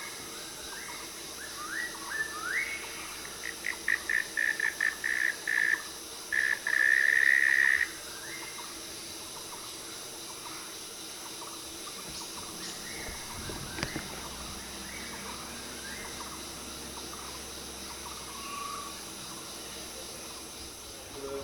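Forest ambience: a bird calls with a few rising notes, then a quick run of short notes and one long held note that ends about eight seconds in, over a steady high insect drone. Fainter scattered calls follow.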